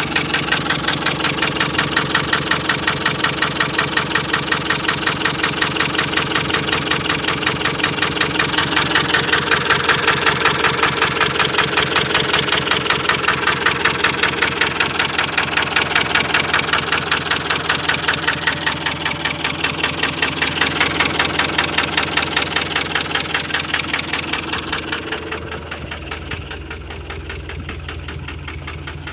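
Ford Transit 2.4 diesel engine idling with an even, rhythmic knock, running rough. This is typical of the fault the owner describes: the engine knocks, misfires on a cylinder and stalls. It turns quieter and duller near the end.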